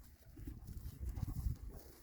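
A dog panting faintly and unevenly, out of breath from running uphill.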